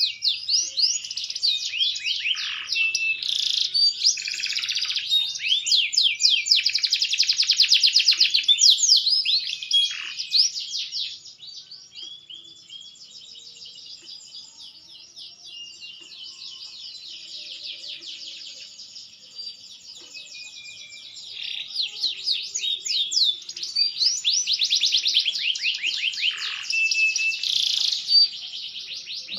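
Green domestic canary singing a long, continuous song of rapid trills and rolls. It is loud for the first ten seconds or so, softer through the middle, then loud again near the end.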